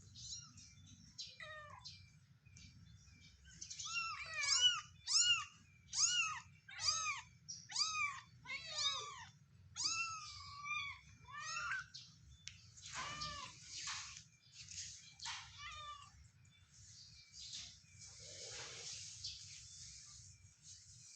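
Ten-day-old kitten mewing: a run of high, thin mews, a little over one a second, some seconds in, turning breathier and rougher near the end.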